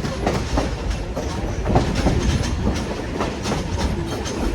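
Passenger train rolling along the track, heard from aboard a coach: a steady low rumble with irregular clicks of the wheels over the rail joints.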